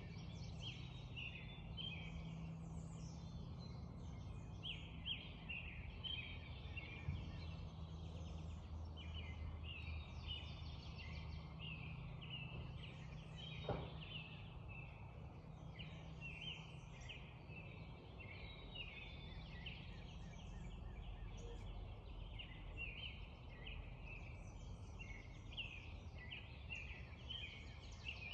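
Dawn chorus of many birds singing over one another, faint and continuous, with a low steady hum underneath and a single sharp click about halfway through.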